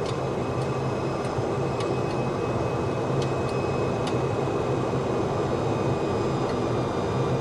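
Steady flight-deck noise of a Boeing 737-200 on final approach: airflow and engine roar with a low hum, a few thin steady whines, and several faint ticks.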